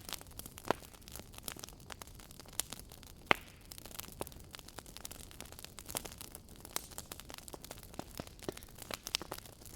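Wood fire burning in a fireplace, crackling with irregular sharp pops over a faint steady hiss; two pops about a second in and a little past three seconds stand out as the loudest.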